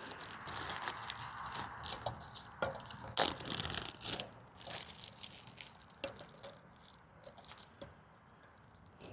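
Camp-cooking preparation: irregular crinkling and crackling with light knocks, loudest about three seconds in and thinning out toward the end, over a faint hiss in the first second or so.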